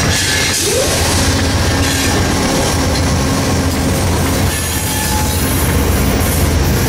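Two Amtrak GE P42DC diesel-electric locomotives passing close by. Their engines run with a steady low hum over the loud rumble and clatter of the wheels on the rails.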